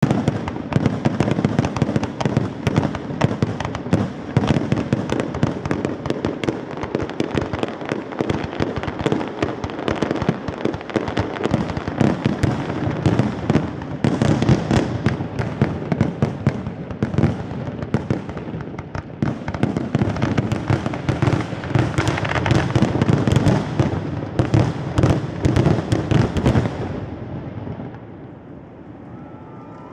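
Fireworks display: a dense, rapid run of bangs and crackles that goes on almost without a break, then dies away about three seconds before the end.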